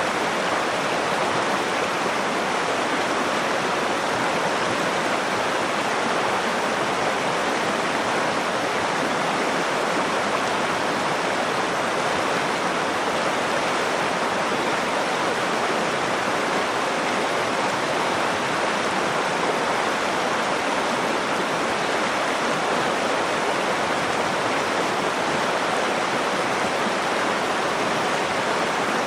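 River water flowing: a steady, even rush of moving water that never changes.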